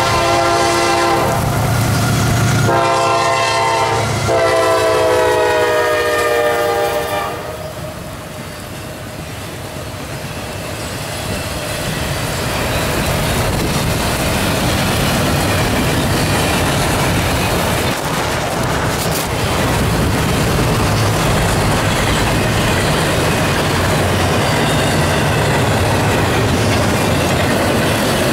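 A CSX freight train's multi-chime air horn sounds two blasts as the locomotive comes by, the second blast dropping in pitch as it passes and cutting off about seven seconds in. After that comes a steady rumble and rattle of double-stack intermodal container cars rolling past, with heavy rain falling.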